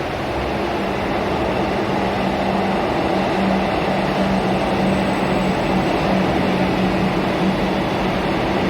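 Kolkata Metro train running: a steady rushing rumble with a low steady hum, slowly getting louder.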